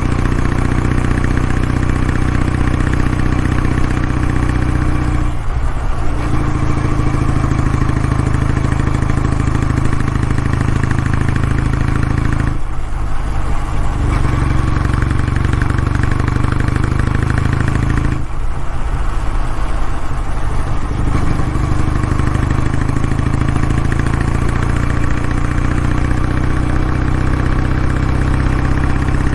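Kawasaki W650's air-cooled parallel-twin engine and exhaust running steadily, its note dropping away briefly three times, about every six seconds.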